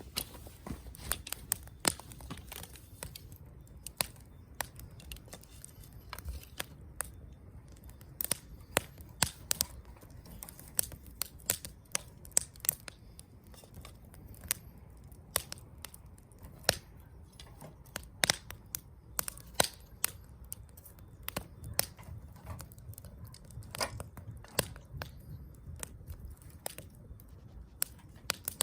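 Wood fire crackling: irregular sharp pops and snaps from the burning firewood, several a second and now and then a louder one, over a low steady rumble.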